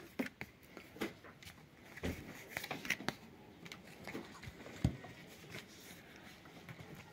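Tarot cards being shuffled and handled: soft scattered rustles and light clicks, with a sharper tap about five seconds in.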